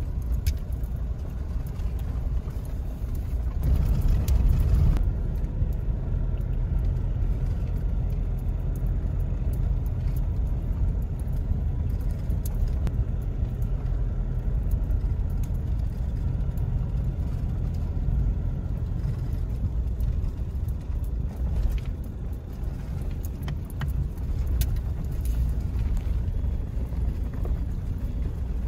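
A car driving: a steady low road-and-engine rumble that swells for a moment about four seconds in, with scattered light clicks and rattles.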